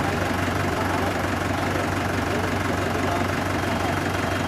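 Swaraj tractor's diesel engine, fuelled with diesel made from waste plastic, running steadily with an even low throb.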